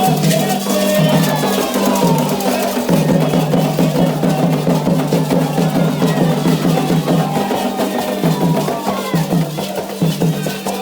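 Candomblé ritual drumming: atabaque hand drums beating a fast, steady rhythm with struck percussion, and voices singing over it.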